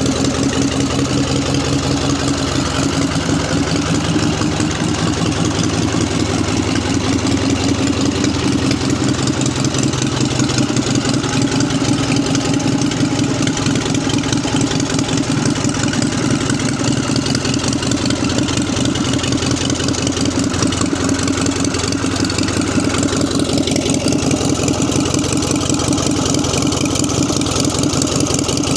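1946 ex-army JAP 55 single-cylinder petrol stationary engine running steadily at idle, its firing beats fast and even.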